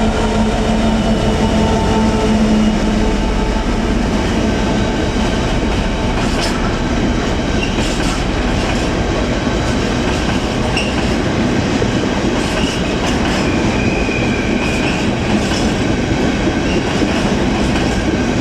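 A Class 66 diesel freight train passing close by. The locomotive's engine hum fades over the first few seconds, then the largely empty wagons roll past with steady wheel clatter and a few brief wheel squeals in the middle.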